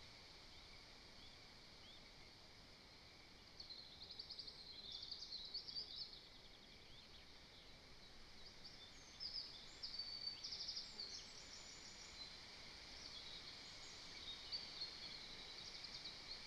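Small songbirds singing faintly in the surrounding woodland over a steady hiss. The song comes in three bursts of quick, high trills.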